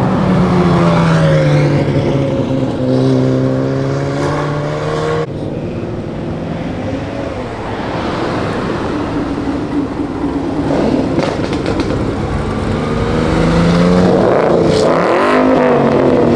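Sports-car engines running and revving, their pitch sliding up and down, with an abrupt cut about five seconds in. Near the end the revs climb and waver.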